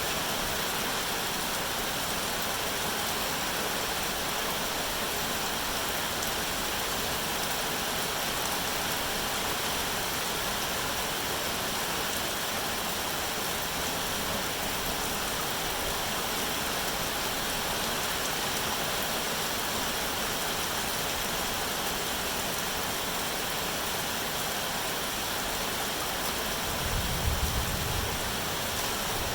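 Steady rain falling, an even hiss with no pauses. Near the end a brief low rumble rises over it for a second or two.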